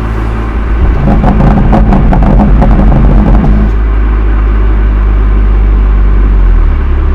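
BMW M2 Competition's twin-turbo straight-six running through its stock exhaust, growing louder and rougher with rapid crackle about a second in for a couple of seconds, then settling back to steady running. The recording is overloaded and slightly distorted.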